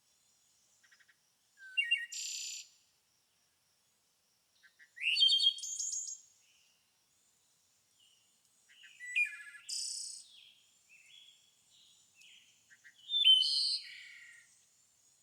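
A songbird singing short, complex phrases, four of them a few seconds apart, each mixing high buzzy notes with quick chirps and falling notes.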